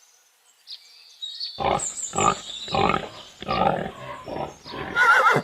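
Pig grunting in a run of about seven short, rough grunts, roughly two a second, starting about a second and a half in.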